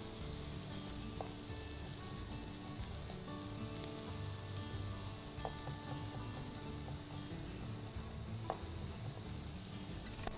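Chicken breast sizzling steadily as it fries in a pan, with a few light clicks.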